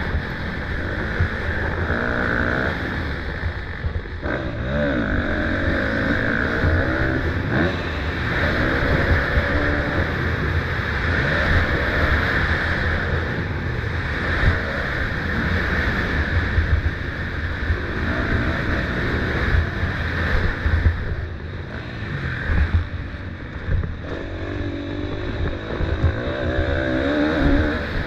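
Motocross dirt bike engines racing around the track, their pitch rising and falling again and again as riders open and close the throttle, with a low rumble underneath.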